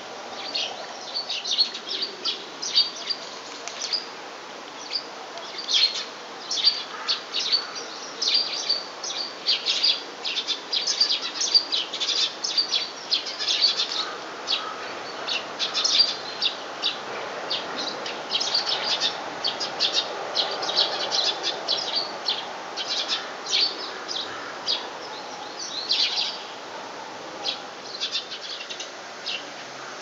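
Many small birds chirping and twittering, with dense, overlapping short chirps that go on without a break.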